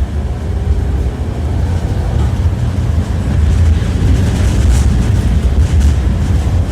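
Tram running along its track, heard from inside the car: a steady low rumble with wheel clatter on the rails, and a few sharp knocks about halfway through.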